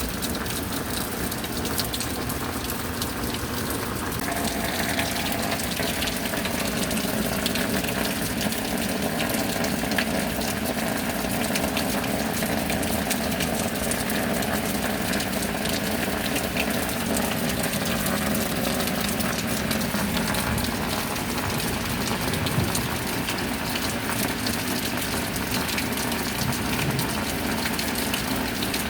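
Steady rain falling, dense with fine drop ticks, together with water gushing and pouring. The gushing grows fuller about four seconds in and then holds steady.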